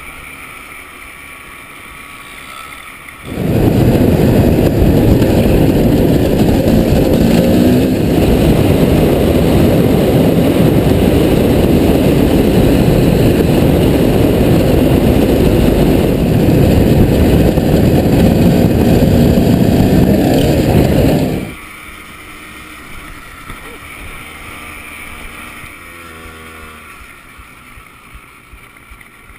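Loud wind buffeting on an action camera's microphone during a trail ride, a dense rumble that cuts in about three seconds in and stops abruptly after about eighteen seconds. Before and after it, a quieter off-road vehicle engine runs, revving a little near the end.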